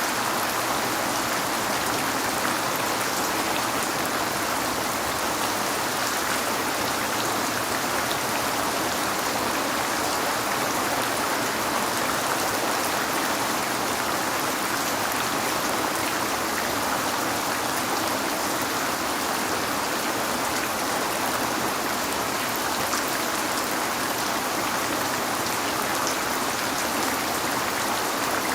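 Steady heavy rain falling on a window, an even hiss with small droplet ticks.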